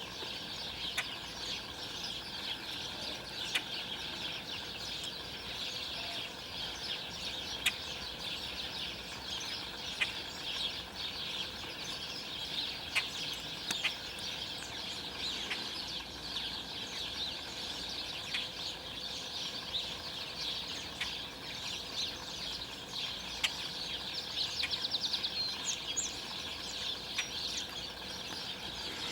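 A flock of songbirds chirping and chattering together without pause, with scattered sharp clicks and a quick pulsed trill a little before the end.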